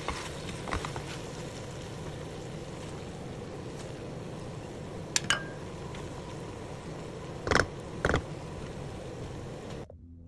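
Chicken pieces sizzling in a hot pan, a steady hiss, with a few sharp knocks and scrapes of a wooden spatula against the pan about five seconds in and twice near eight seconds. The sizzle cuts off suddenly near the end.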